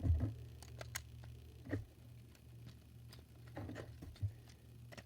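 Plastic Lego pieces of a Lego-built Beyblade clicking and knocking together as the parts are fitted into one top: a scattering of short, separate clicks over a low steady hum.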